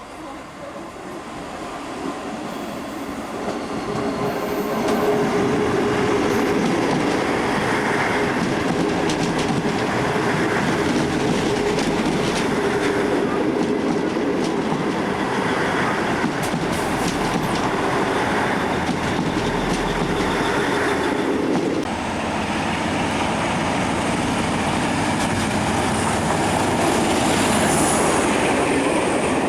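A train passing close by on the line: it builds up over the first few seconds, then runs steadily with wheels clicking over the rail joints and some wheel squeal. The sound changes about two-thirds of the way through and carries on.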